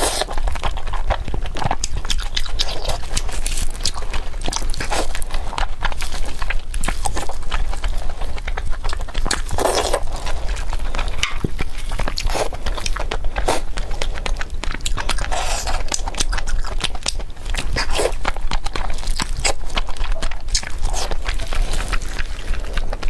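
Close-miked eating: a person biting and chewing, with irregular wet mouth clicks and smacks.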